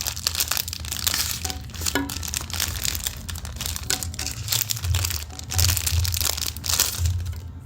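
Crinkling and crackling of plastic packaging being handled, with many small irregular crackles and clicks.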